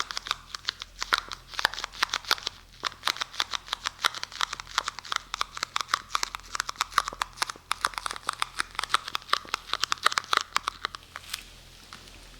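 Adhesive tape handled close to the microphone, giving rapid crisp crackling and tapping strokes, several a second. The strokes stop about a second before the end.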